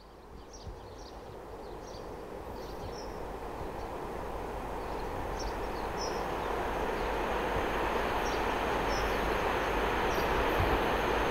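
A train approaching along the track, its rumble growing steadily louder throughout, with a thin high whine joining in about halfway. Birds chirp intermittently above it.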